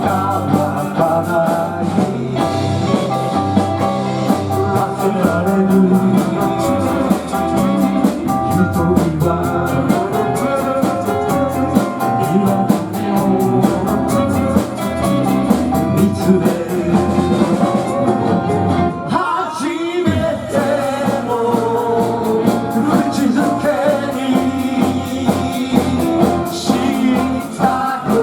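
Live band music with electric guitar and a singer, playing continuously, with a brief break about two-thirds of the way through.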